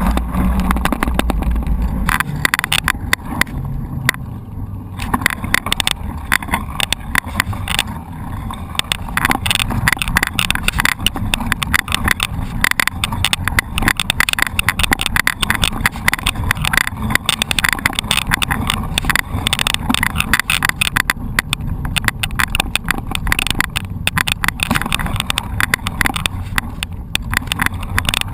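Mountain bike rattling and clattering over rough ground, a dense run of small knocks and clicks from the bike. A low rumble in the first two seconds.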